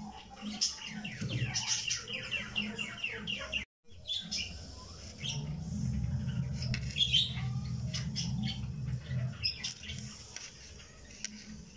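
Birds chirping, with a quick run of falling chirps in the first few seconds and scattered calls after, over a low steady hum; the sound cuts out completely for a moment just before four seconds in.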